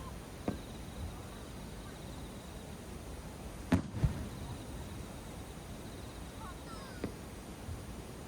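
Aerial fireworks shells bursting with sharp bangs over a steady background hum: one bang about half a second in, two louder bangs in quick succession around four seconds in, and another a little before the end.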